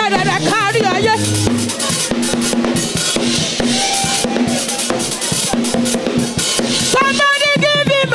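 Live church band music: a drum kit playing a beat on kick and snare, with a singer's wavering voice at the start and again near the end.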